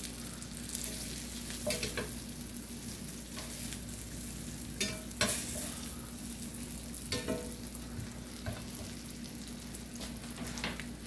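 Sautéed peppers and onions sizzling in a cast-iron skillet while a spatula works them onto split baked potatoes. A few sharp scrapes and clicks of the utensils against the pan come every second or two.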